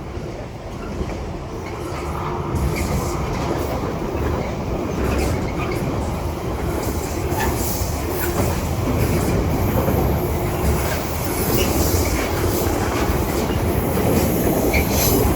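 Heavily loaded freight train hauled by a Class 66 diesel locomotive passing at speed, its long rake of wagons rumbling and clicking over the rail joints with some wheel squeal. The sound grows louder over the first few seconds and then stays steady.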